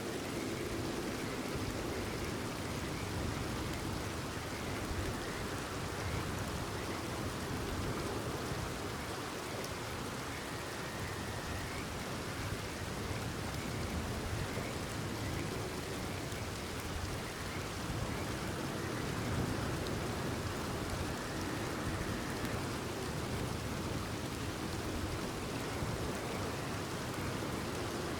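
Steady rain falling, with faint frog calls.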